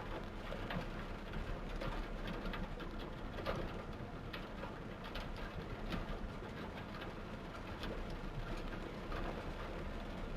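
Torrential rain falling, a steady hiss with scattered drips and splashes.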